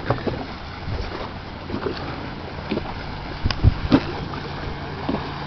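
Wind buffeting the microphone over choppy water, with scattered knocks and thumps. A faint steady low hum comes in about halfway through.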